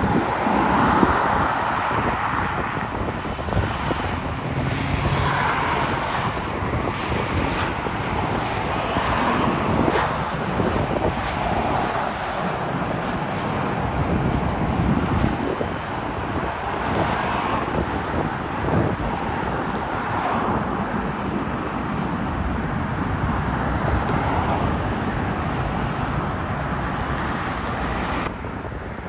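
Road traffic passing steadily, with wind buffeting the microphone. The sound drops suddenly near the end.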